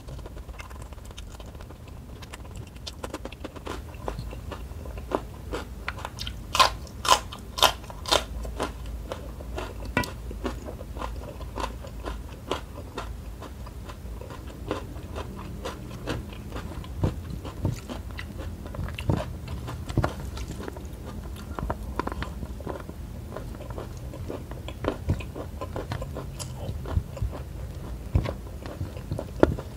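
Close-miked chewing and crunching of a mouthful of rice with shrimp and stink-bean (petai) sambal, a steady run of wet mouth clicks. A cluster of louder crunches comes about seven seconds in.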